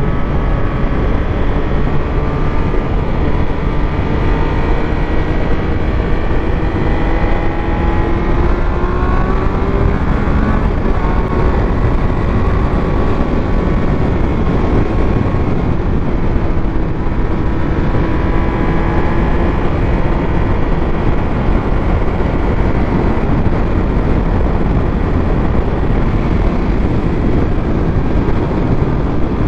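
Triumph Speed Triple 1200 RS inline three-cylinder engine under way at speed, its pitch slowly rising and falling with the throttle, under heavy, steady wind rush on the microphone.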